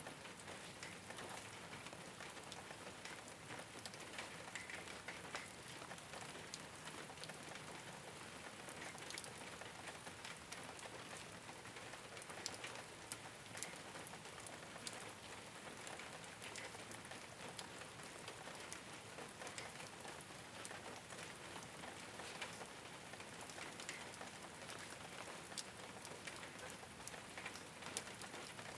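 Steady rain falling on a rooftop: an even hiss with many small drop ticks scattered through it.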